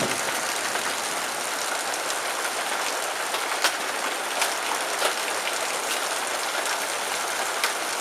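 Heavy rain pouring steadily onto a metal porch roof, with hailstones striking it as separate sharp cracks, a few of them in the second half.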